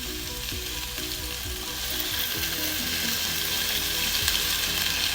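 Grape leaves with tomato paste and spices sizzling in a hot pot just after a little water has gone in, a steady hiss that grows louder about two seconds in. Soft background music plays underneath.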